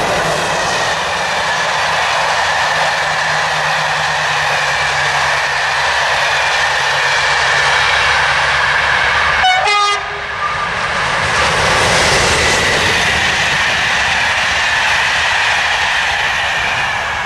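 SNCF regional push-pull passenger train, pushed by BB 22200-class electric locomotive BB 22362, passing close by at speed: a steady rush of wheels on rail. There is a short sharp sound about ten seconds in.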